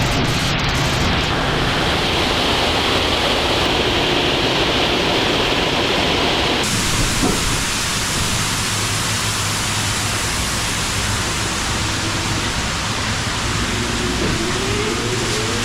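Loud, steady wash of industrial noise from an assembly plant's machinery, changing abruptly about seven seconds in. Near the end a faint rising whine comes in.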